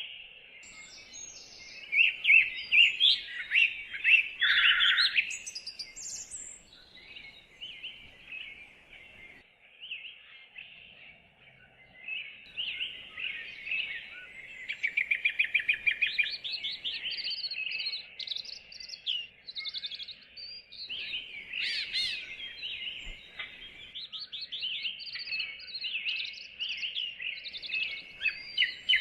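Several songbirds singing in woodland, an overlapping chorus of high chirps and quick trills with short gaps between phrases, loudest in a few bursts.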